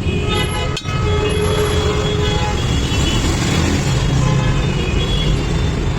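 Road traffic: a steady engine rumble with a few short vehicle horn toots, one about a second in.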